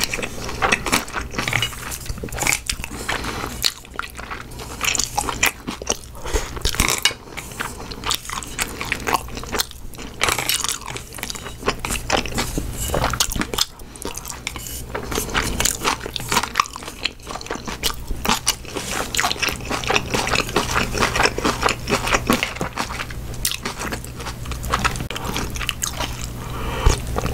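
Close-miked chewing and crunching of food in the mouth, with wet mouth sounds: a person eating jjapaghetti black-bean noodles.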